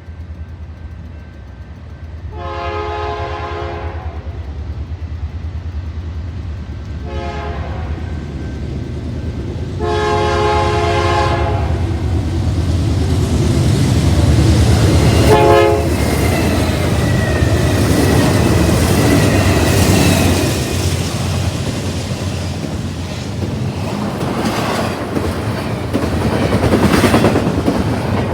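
Freight diesel locomotive horn sounding four blasts, each a chord of several tones: a long one, a short one, a second long one and a brief final toot. After the horn, the lead locomotives' diesel engines rumble loudly past, with steel wheels clattering over the rail as the intermodal train goes by.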